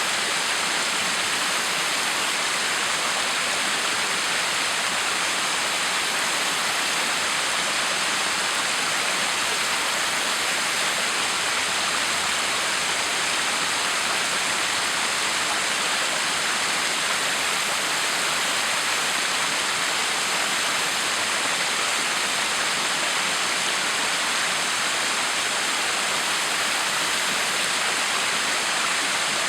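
Backyard waterfall: water falling and splashing in a steady, unbroken rush.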